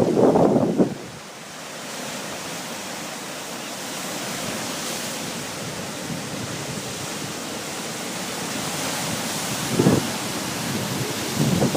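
Ocean surf washing steadily on the shore, swelling slowly. Brief gusts of wind buffet the microphone at the start, about ten seconds in, and near the end.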